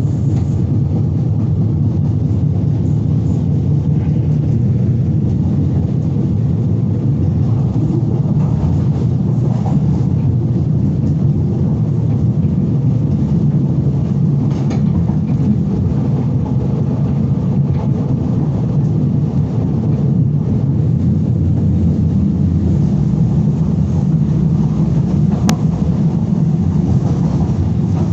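Berlin S-Bahn BR 485 electric train running at speed, heard from inside the car as a steady, heavy low rumble of wheels on rails. A single sharp click comes near the end.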